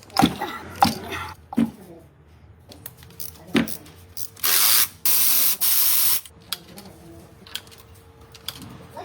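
Several sharp knocks, then the loudest part: a hiss of spray in two bursts, a short one and one about a second long, each cutting off sharply.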